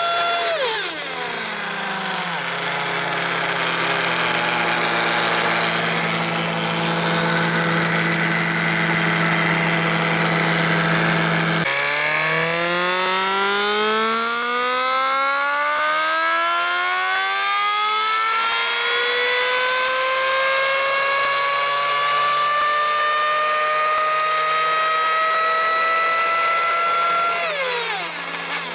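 Reedy VR-ST .21 nitro RC engine on a dyno: it drops quickly from high revs to idle, idles for about ten seconds, then winds up in one long, smooth, steadily rising climb in pitch lasting about fifteen seconds, a dyno acceleration run. Near the end it falls sharply back to idle.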